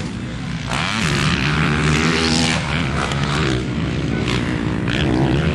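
Motocross motorcycle engines revving, several pitches overlapping and rising and falling.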